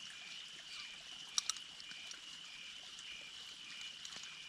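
A night chorus of frogs: a steady high trill with a shorter note pulsing about twice a second, over the faint rush of a creek. Two sharp clicks come about one and a half seconds in.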